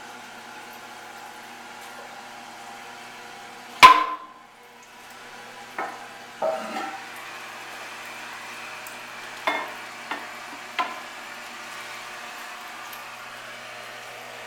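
Porcelain of an American Standard Cadet toilet tank being handled: one loud ringing clunk about four seconds in, then several lighter clinks and knocks.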